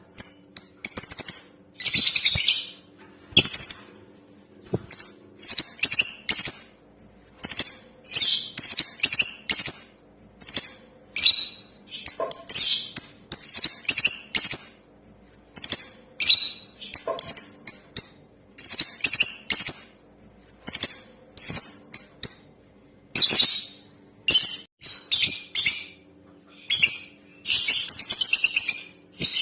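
Lovebird calls: rapid bursts of high, shrill chattering chirps in clusters, repeated with short gaps between, sung as a lure for male lovebirds.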